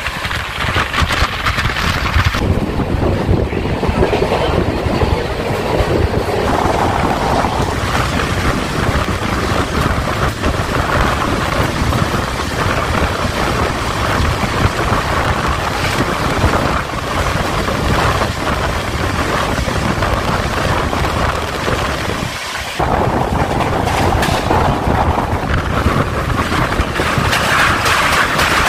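Express passenger train running at speed: a steady rumble of wheels on the track with rushing air, the sound changing abruptly twice.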